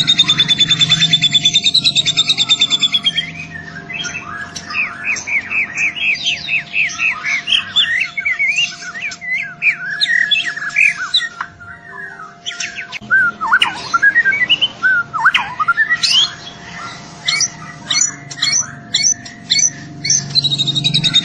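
White-rumped shama (murai batu) singing: a fast rattling trill at the start, then a long varied run of quick whistled notes and sliding calls.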